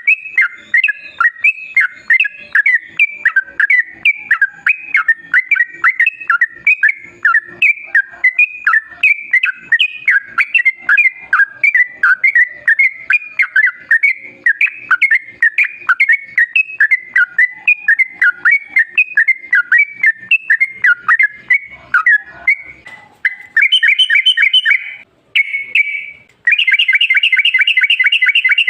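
Yellow-vented bulbul (trucukan) singing, a rapid run of short, quick notes repeated many times a second. About three-quarters of the way through it switches to harsher, buzzier chattering calls in long runs, broken once by a short pause.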